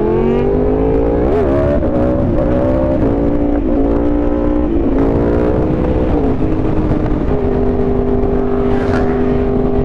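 Yamaha R1M's crossplane inline-four accelerating hard: the pitch climbs for the first second, rises and dips through several quick gear changes, then holds steady from about seven seconds in, with wind rush underneath.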